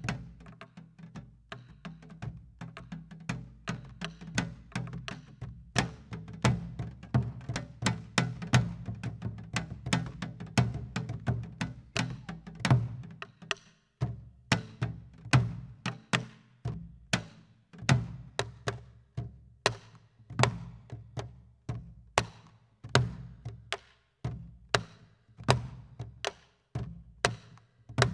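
Korean buk barrel drum and janggu hourglass drum played together in a rhythmic pansori gobeop pattern: deep drum-head strokes mixed with sharp, dry clicks, several strikes a second, with a brief pause about halfway.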